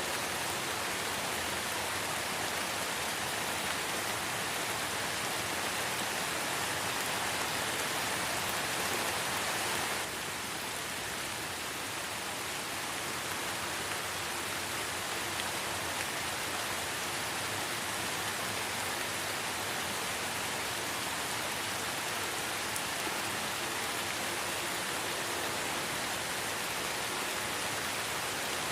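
Light rain falling in a forest, a dense, even hiss of drops. About ten seconds in it steps slightly quieter.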